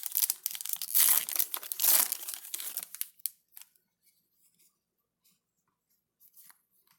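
Plastic wrapper of a baseball card pack being torn open and crinkled, loudest a second or two in, then dying away after about three seconds to a few faint ticks.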